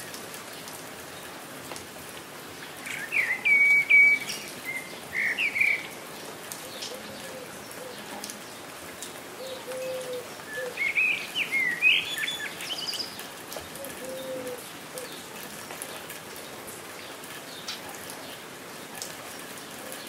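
Steady rain falling, with songbirds chirping over it in two short bursts of song: one about three seconds in, another around eleven seconds.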